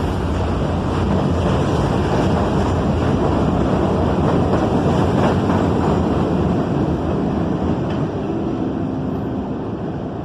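New York City subway train running past on the track, a dense rumble of wheels on rail that swells to its loudest in the middle and then eases off, with a faint steady whine near the end.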